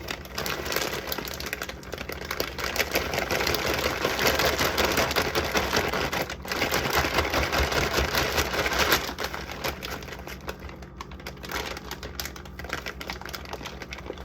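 Plastic bags of shredded cheese crinkling and rustling with fast, irregular crackle as the cheese is combined from one bag into another. The sound is loudest through the middle and lighter near the end.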